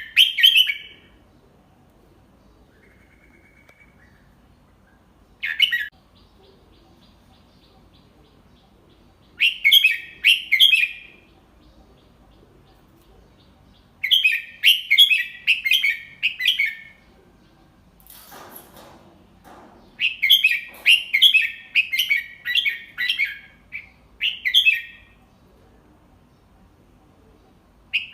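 Red-whiskered bulbul singing a tutor song: short, bright phrases of several quick notes, sung slowly and clearly with pauses of a few seconds between them, the kind played for young bulbuls to copy. A soft rustle comes about two thirds of the way through.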